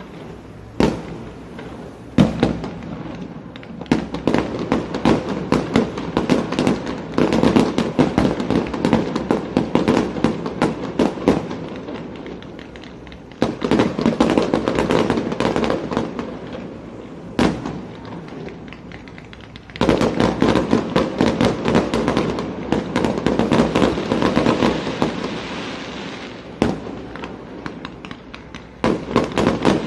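Aerial fireworks display: single loud bangs of shells bursting, and waves of dense rapid crackling from crackle effects that swell and die away several times.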